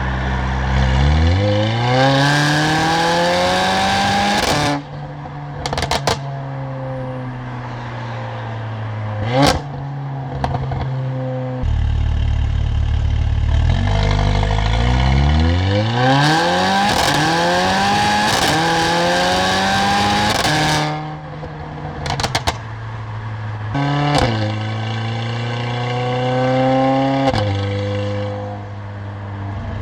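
Stage 2-tuned Mercedes-AMG CLA45's turbocharged four-cylinder through a loud exhaust, accelerating hard in four rising pulls through the gears, with sharp cracks between the pulls.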